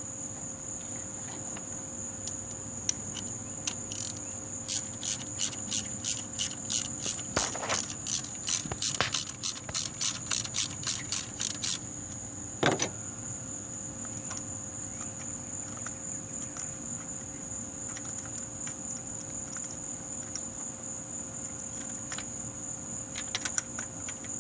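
A ratchet wrench with a spark plug socket clicks in a run of quick, even strokes, about three a second for several seconds, as an old spark plug is backed out of the engine. A steady high-pitched tone sounds underneath throughout.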